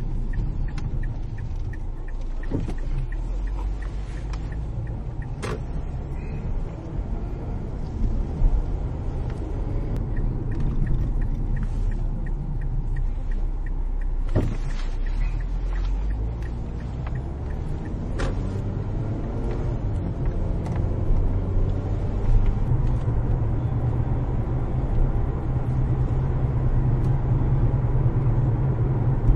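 Car driving along, steady engine and road rumble heard from inside the cabin, with a few sharp knocks from bumps. About three-quarters of the way through the engine note rises and grows louder as the car speeds up.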